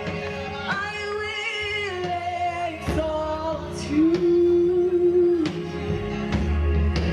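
Church praise team singing a worship song, a woman's voice leading, over live band accompaniment, with one long held note in the middle.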